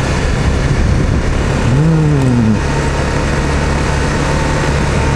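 Honda CRF250M's single-cylinder four-stroke engine running steadily as the bike is ridden along the road. About two seconds in, the pitch briefly rises and falls.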